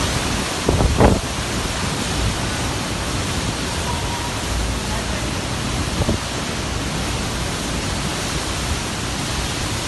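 Heavy storm rain pouring steadily, an even hiss, with a brief thump about a second in and a smaller one near six seconds.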